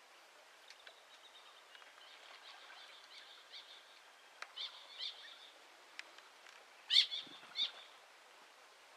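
Wetland birds calling over faint background chirping: a series of short high calls, loudest about seven seconds in.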